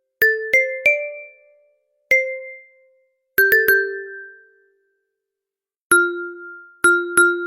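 Struck, pitched ringing notes, each with a sharp click at the start and a ring that fades over about a second. They come at a few different pitches: a quick run of three at the start, a single note, another quick run of three, then single notes toward the end.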